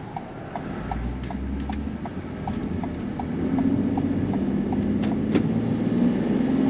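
Turn-signal indicator clicking steadily inside a camper van's cab, about three clicks a second, over the van's engine and road noise. The engine grows louder from about halfway through as the van accelerates.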